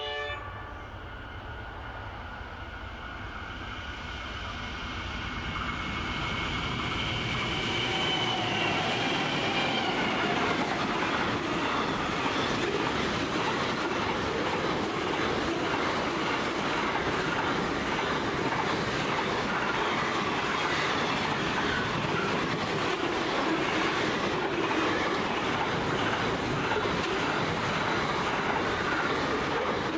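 Pacific National container train, hauled by NR class diesel locomotives, passing close: it grows louder over the first several seconds as it comes near. Its wagons then roll past in a steady rush with a rhythmic clickety-clack of wheels over the rail joints.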